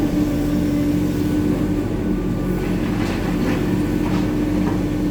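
Hitachi 890 excavator's diesel engine and hydraulics running steadily under load, a constant drone with a steady whine, with a few faint knocks about three to four seconds in.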